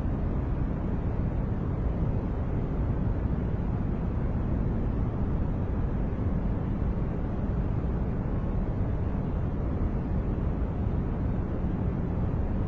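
Continuous steady noise track with no events or changes, heaviest in the low end, so it sounds like a deep, even rumbling hiss rather than a bright one.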